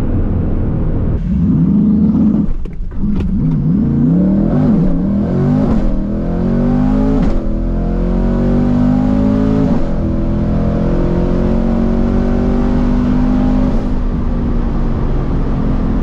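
Twin-turbo C8 Corvette V8 making a drag-strip pass on a rough launch. The revs waver up and down in the first few seconds, then climb steadily through the gears, with a drop in pitch at each shift about 7 and 10 seconds in.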